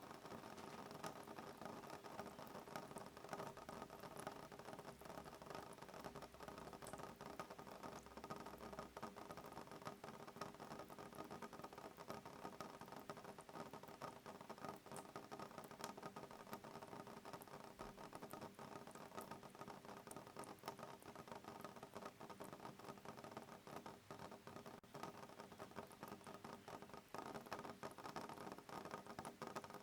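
Soft rain pattering on a window pane: a steady hiss of fine drops with many small, quick ticks.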